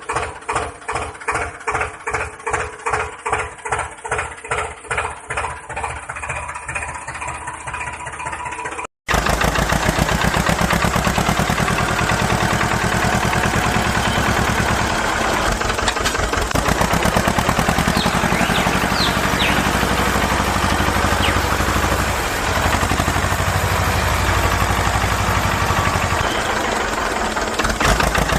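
Small engine of a mini tractor running steadily at a fast, even firing rate, starting abruptly at a cut about nine seconds in. Before it, an evenly pulsing sound beats a little over twice a second.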